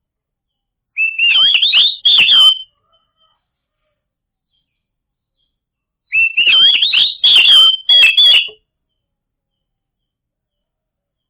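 Oriental magpie-robin (kacer) singing: two phrases of rapid, sweeping whistled notes, one starting about a second in and one about six seconds in, each lasting roughly two seconds, with silence between.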